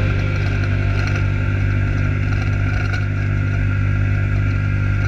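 Vehicle engine running at a steady speed, a constant loud drone with no revving.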